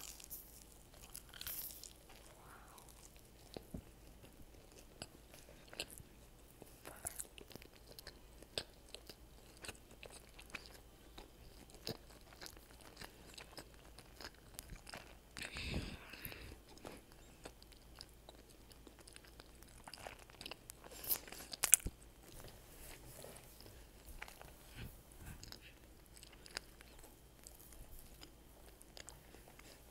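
Close-miked chewing of breaded fried food: quiet mouth sounds with scattered sharp crunches of the crisp breading. A few louder crunches come about halfway through and again a little past two-thirds of the way.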